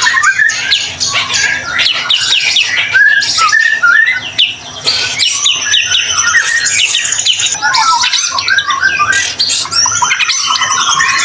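White-rumped shama (murai batu) singing without a break: a fast, varied run of clear whistles, quick rising and falling sweeps and rattling chatters.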